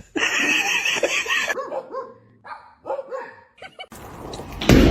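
A small animal's cries, like a dog's barks: one long harsh call, then a quick run of short yips about four a second, with a loud bump near the end.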